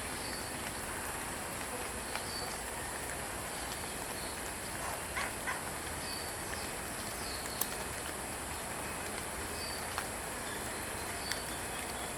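Outdoor background: a steady hiss with faint short bird chirps every couple of seconds and a few sharp clicks.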